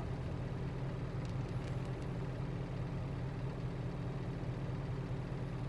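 Truck engine idling steadily, a low even hum heard from inside the cab.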